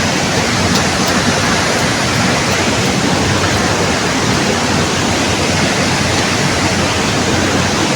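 River water rushing steadily over rocks, a loud, even flow with no break.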